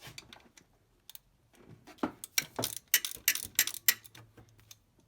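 Irregular run of sharp metallic clicks and clinks from hand tools and engine parts being handled, coming thickest and loudest in the middle.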